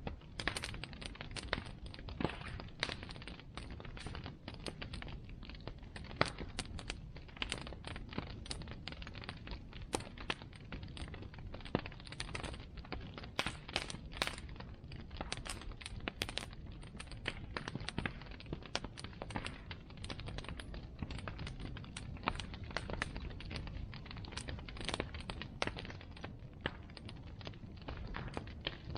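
Wood bonfire crackling: irregular sharp pops and snaps, several a second, over a steady low rush.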